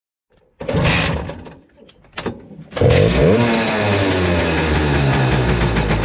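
Small motorcycle engine being started. A short burst about half a second in fades away, there is a click, then it catches just before three seconds, revs up briefly and falls back into a steady run.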